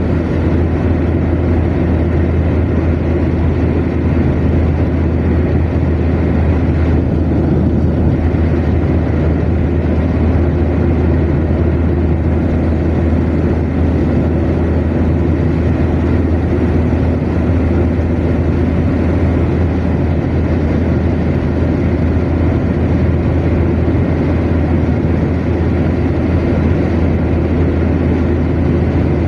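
Steady road drone of a car cruising at motorway speed: a low hum with tyre and engine noise, unchanging throughout.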